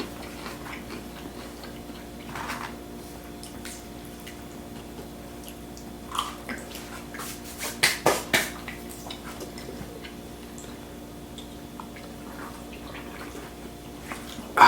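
Quiet eating and food-handling sounds at a table: a few short clicks and rustles, clustered from about six to eight and a half seconds in, over a steady low hum.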